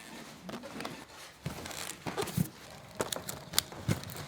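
Handling sounds: a scatter of sharp clicks and light knocks with some crinkling, thicker in the second half, as of plastic lunch-box containers and packaging being handled.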